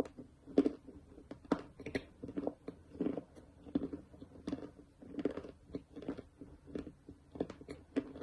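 A mouth chewing dry edible clay with crisp crunches in a steady rhythm, about one crunch every three-quarters of a second.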